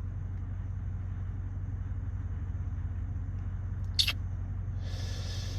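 Dodge Charger R/T's straight-piped V8 running with a steady low drone, heard from inside the cabin. A single short click sounds about four seconds in.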